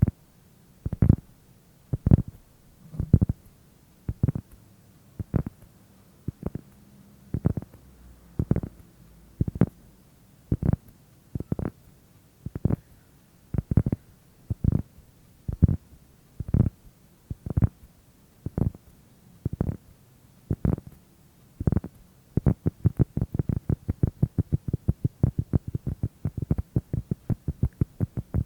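Slow, soft tapping, one dull thud about every second, which speeds up about 22 seconds in to a quick run of several taps a second.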